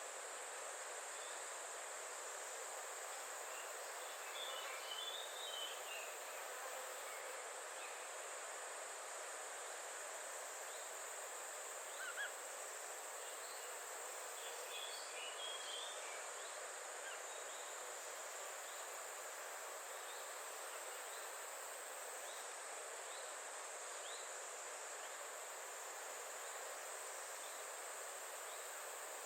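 Faint natural outdoor ambience: a steady high-pitched insect drone over an even hiss, with short bursts of bird chirps twice, once a few seconds in and again about halfway, and a single brief click.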